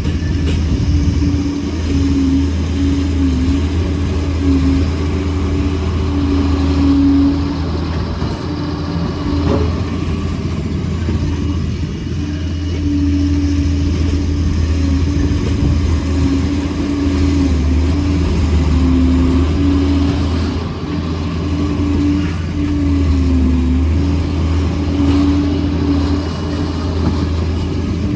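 Liebherr 746 crawler dozer's diesel engine running steadily, a loud continuous drone whose pitch dips slightly now and then.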